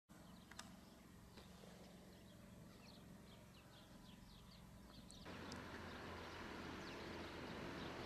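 Faint outdoor ambience: a bird gives a quick run of short, high chirps over a low hum. About five seconds in, a steady rushing noise sets in abruptly and covers it.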